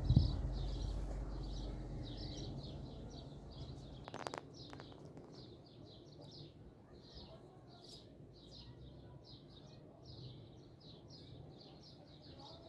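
Small birds chirping in quick short notes, about three a second. A low rumble fades away over the first few seconds, and a single sharp click comes about four seconds in.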